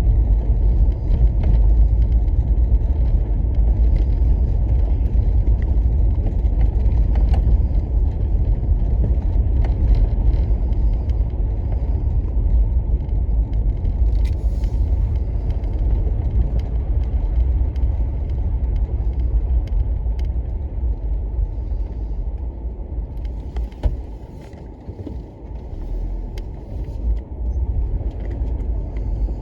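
Steady low rumble of a car driving, with faint scattered clicks above it; the rumble eases for a couple of seconds near the end.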